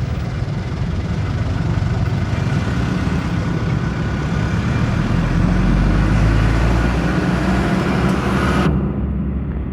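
Heavy motor vehicle engine running steadily with a low rumble, louder around the middle. The sound turns duller abruptly near the end.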